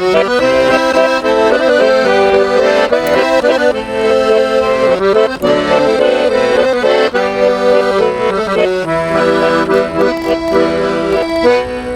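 Accordion (garmon) playing an instrumental interlude between verses of a slow Russian romance: sustained chords under a melody line.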